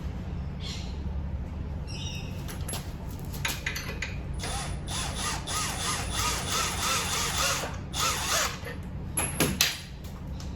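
Hand tools being worked on metal: scattered clicks and knocks, with a dense stretch of squeaking and rattling in the middle and a few sharp clicks near the end, over a steady low hum.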